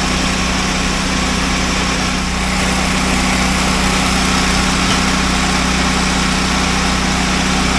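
Grain truck engine running steadily at a constant speed, a low even drone.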